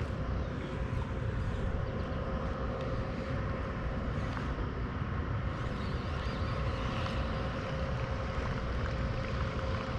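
Steady wind rumble on the microphone over an open-water background, with a faint steady high hum throughout.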